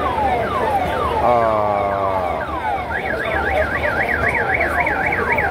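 Electronic siren sounding a repeating falling 'pew' tone about twice a second, then switching about three seconds in to a fast warble that rises and falls about four times a second.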